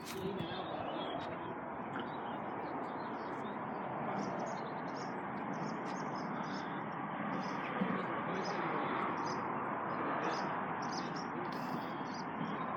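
A small bird chirping repeatedly, about two short, high chirps a second, over a steady outdoor background hiss.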